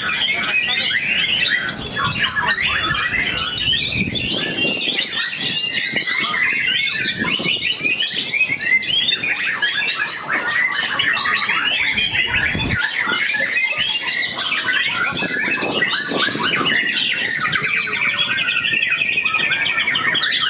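Caged white-rumped shamas (murai batu) singing at once, a dense run of rapid chirps, trills and whistles with no pause.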